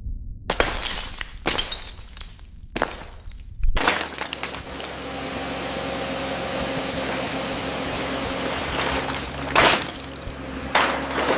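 Four sharp crashes in the first four seconds, then a steady rushing noise with faint held tones and one more crash near the end.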